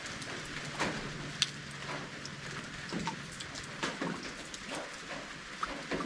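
Steady rain falling, with irregular heavier drops tapping close by; one sharp tap about a second and a half in is the loudest.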